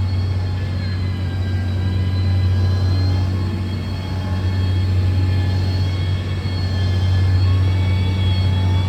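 Diesel engine of a heavy road-construction machine running steadily: a deep, even drone with faint high whining tones above it.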